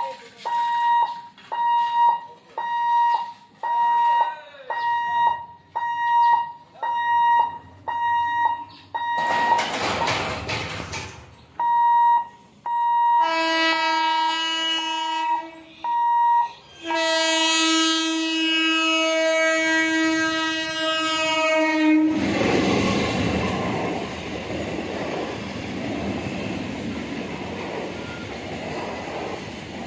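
Level-crossing warning alarm beeping about once a second. Then an EMU local train's horn sounds twice, the second blast held for about five seconds. The train then passes with the steady noise of wheels on the rails.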